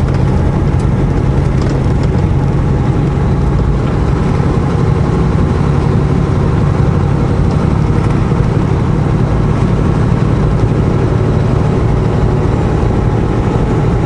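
Semi truck's diesel engine running steadily at a constant low pitch under way, with road and tyre noise.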